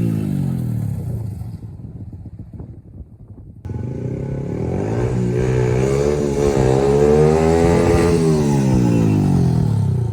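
Go-kart engine slowing with its pitch falling, then running quieter for about two seconds. It picks up suddenly, revs rising to a peak, then the pitch falls again as the kart slows.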